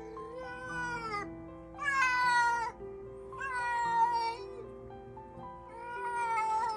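Domestic cat giving four long, drawn-out meows, each about a second and roughly one and a half to two seconds apart, the pitch dropping at the end of each. Background music plays under them.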